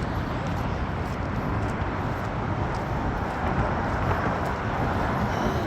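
Steady noise of road traffic passing on the bridge, mixed with strong wind buffeting the microphone in low rumbling gusts.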